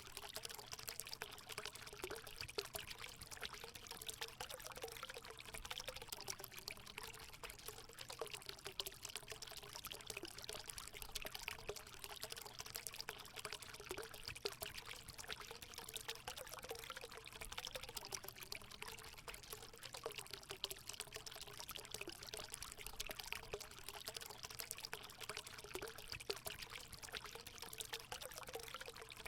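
Water running and splashing steadily as it pours into a hot spring pool.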